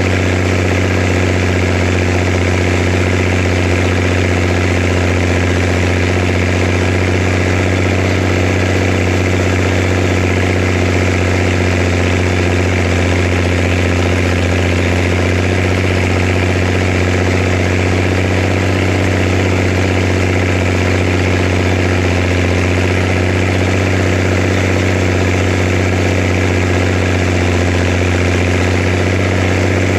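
Zetor Crystal 16145 tractor's six-cylinder diesel engine running steadily at a constant speed, with a strong low hum.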